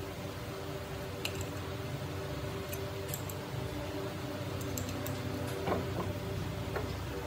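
A steady mechanical hum with several even tones, broken by a few light clicks and taps from hand work.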